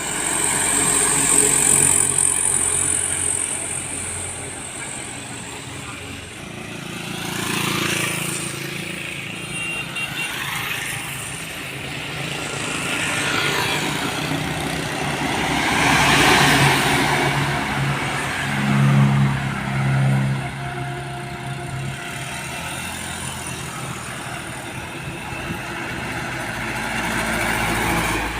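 Road traffic with heavy diesel trucks and other vehicles passing one after another, their engine hum and tyre noise swelling and fading several times.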